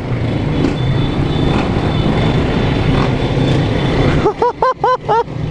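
Honda CG 160 single-cylinder four-stroke motorcycle engine running steadily under way, with wind and road noise; a voice shouts briefly about four seconds in.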